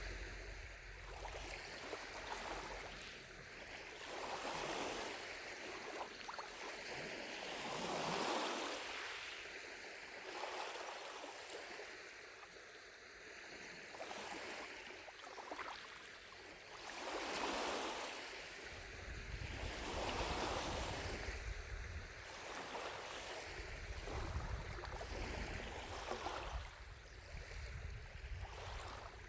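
Small lake waves lapping against the shore, coming in soft washes every couple of seconds.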